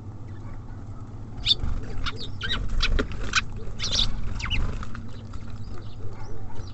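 Small songbirds at a bird feeder giving a quick run of short, high chirps, from about one and a half to five seconds in, over a steady low background rumble.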